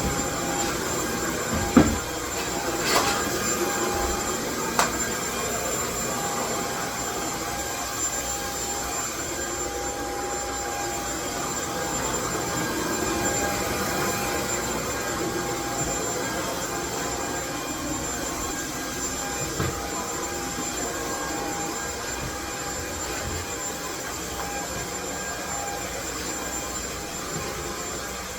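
Steady, loud white-noise rush with a faint high whine running through it, and a few sharp clicks in the first five seconds.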